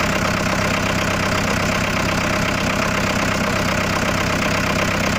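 Ford Transit 2.5-litre four-cylinder diesel engine (code 4BC) idling steadily.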